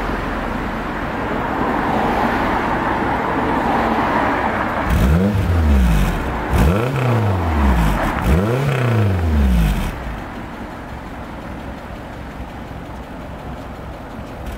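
Renault 5 GTL's four-cylinder petrol engine running at the tailpipe, blipped three times about midway, each rev rising and falling back, then settling to a quieter idle.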